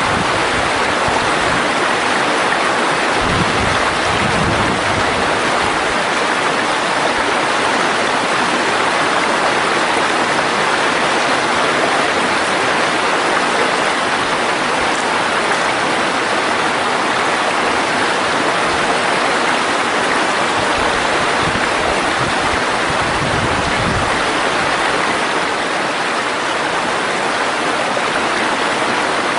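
Mountain stream water rushing steadily, a constant even hiss of flowing water.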